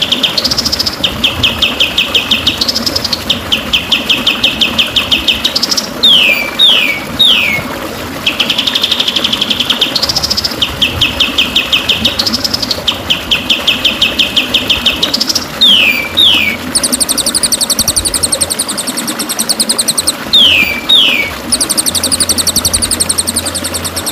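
Recorded songbird song used as a training track for murai batu: fast, even trills repeated in near-identical phrases, broken by short downward-sweeping notes. A higher, faster trill takes over in the last several seconds.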